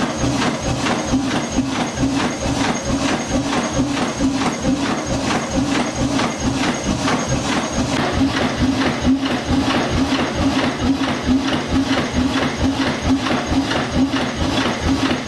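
Old marine engine running at slow, steady speed: an even knock about three times a second over a low hum.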